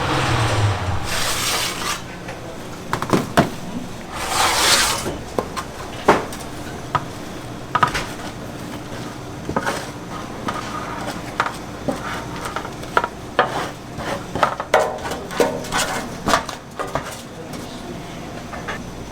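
Restaurant kitchen work: metal utensils and dishes clattering in many separate knocks and clicks, with two short bursts of hissing in the first five seconds.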